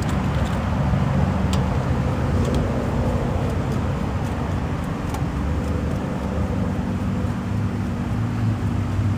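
Steady low mechanical hum and rumble with several steady low tones, and a few faint light clicks in the first few seconds.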